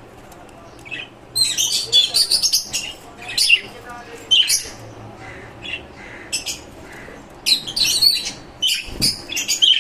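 Caged lovebirds and finches calling together: quick clusters of short, sharp, high chirps and calls, busiest about a second in and again over the last two seconds.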